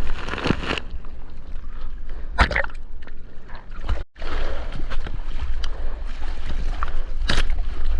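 Seawater sloshing and splashing around a GoPro in the surf, with a steady low rumble of wind and water on the microphone and a few sharper splashes. The sound drops out for a moment about four seconds in.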